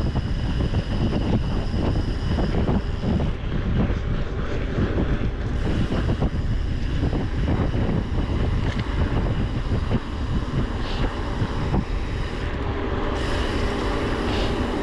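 Wind buffeting the microphone on a mountain bike moving fast down a trail, with the tyres rolling over dirt and many short knocks and rattles as the bike goes over bumps.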